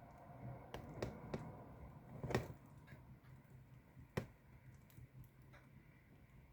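Distant fireworks popping: a handful of scattered sharp bangs, the loudest a little over two seconds in and another about four seconds in, over a faint low rumble.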